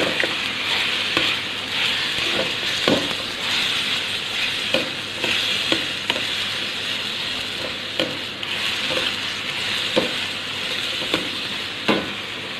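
Chicken pieces frying in coconut oil in a wok with a steady sizzle. A steel ladle stirs them, scraping and knocking against the wok about once a second.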